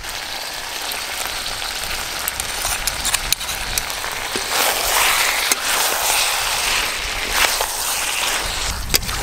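Browned, spiced mutton sizzling in a hot pan as whisked yogurt goes in and is stirred through with a spatula: a steady frying hiss that swells about halfway through, with scattered sharp clicks and scrapes.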